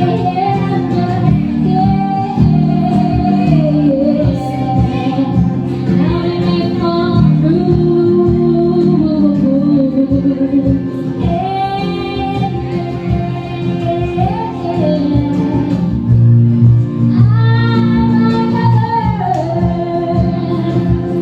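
A woman singing a slow pop melody with held, gliding notes over acoustic guitar accompaniment, performed live.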